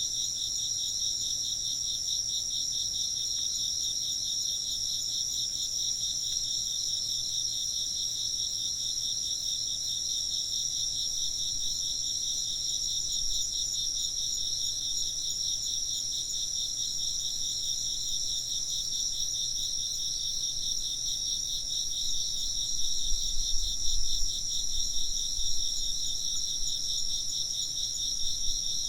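A steady chorus of crickets chirping, a continuous high, finely pulsing trill. About two-thirds of the way through, a low rumble comes and goes for a few seconds.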